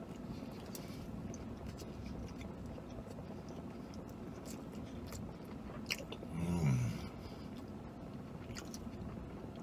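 A man chewing a mouthful of burrito with small wet mouth clicks. About two-thirds of the way in comes a short, low hummed "mm" that falls in pitch.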